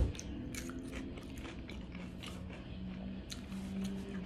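Close-up mouth sounds of someone chewing a mouthful of pizza with soft roasted vegetables: small wet clicks and crunches all through. A faint steady low hum joins about a second and a half in.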